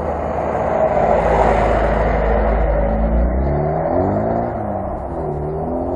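Lada Niva engines working under load on a climb: dense engine noise at first, then from about halfway in an engine revving up and down repeatedly.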